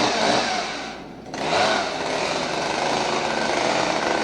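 Two-stroke gasoline chainsaw running hard, dropping off briefly about a second in and then revving back up.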